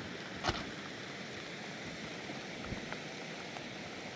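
Steady heavy rain falling, with one sharp click about half a second in.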